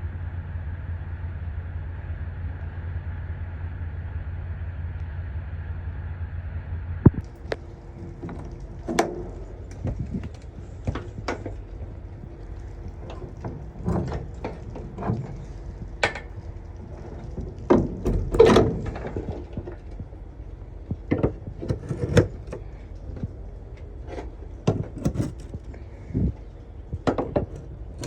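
A truck engine's steady low idling hum, which stops with a sharp clack about seven seconds in. After it come scattered knocks, clunks and footsteps.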